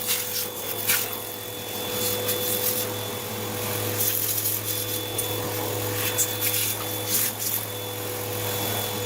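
Vacuum cleaner running steadily with a constant whine while dirt is cleaned out of a robot vacuum, with occasional clicks and rattles.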